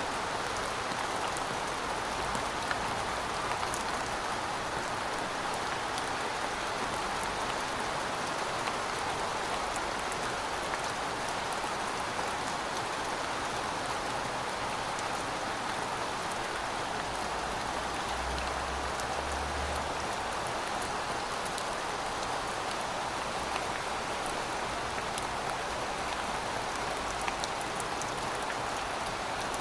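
Heavy rain falling steadily, a dense even hiss of rain with scattered individual drops ticking through it.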